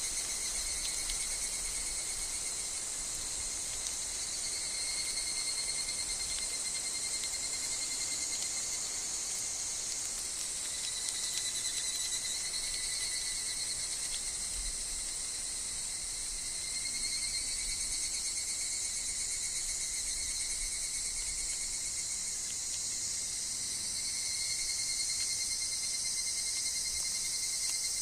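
Steady chorus of higurashi cicadas and other insects, a continuous high shrill that swells and eases every few seconds.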